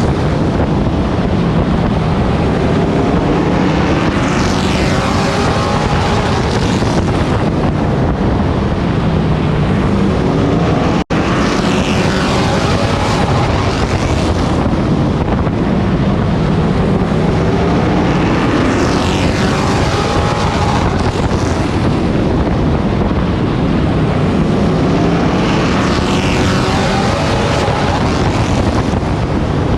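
Race truck's engine heard on board, revving up and dropping back roughly every seven seconds as it laps a short oval, with wind noise over it. The sound cuts out completely for an instant about eleven seconds in.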